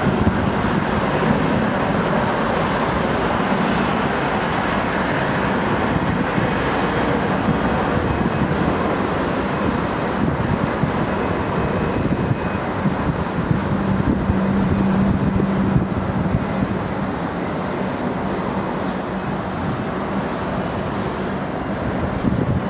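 Jet airliner engines running: a steady rush of noise with a low hum, mixed with wind buffeting the microphone.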